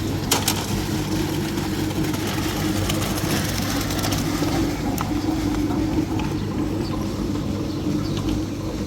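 An engine running steadily at an even speed, with a sharp knock just after the start and another about five seconds in.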